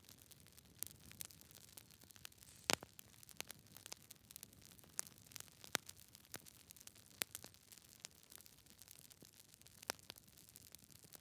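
Wood fire burning in a fireplace: a soft steady hiss with irregular sharp crackles and pops from the logs, the strongest about a third and half of the way through.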